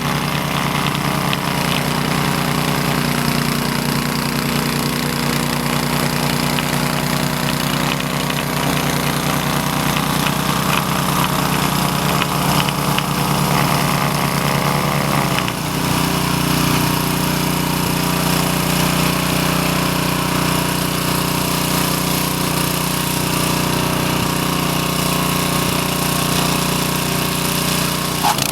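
Honda snowblower's engine running steadily at working speed, its pitch dipping briefly about halfway through before settling again.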